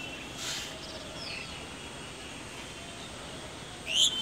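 Small birds chirping outdoors over steady background noise: a few short falling chirps about a second in, then one loud, sharp rising call near the end.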